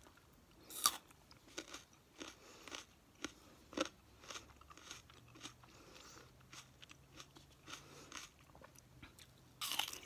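Close-miked ASMR eating: a person biting and chewing crunchy food, a quick run of crisp crunches, the loudest about a second in and another loud cluster near the end.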